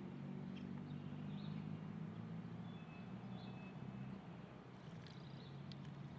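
Pigeons cooing, a low purring coo that fades out about four seconds in, with a few small bird chirps and a short thin whistle above it.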